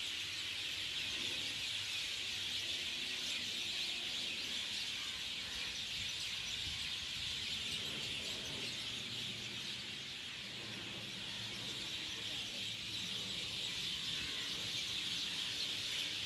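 Dense, steady chorus of many birds chirping at once, high-pitched and unbroken, starting and stopping abruptly.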